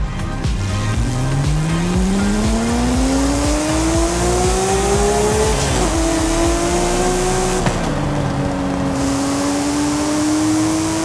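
Porsche Speedster's flat-six engine pulling under acceleration, its pitch climbing steadily, then dropping with an upshift about five and a half seconds in and another near eight seconds, before climbing slowly again. Wind rushes over the open car.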